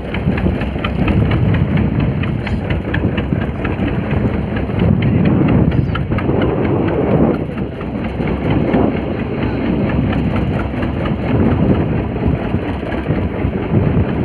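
Fishing boat's engine running steadily with an even, fast beat.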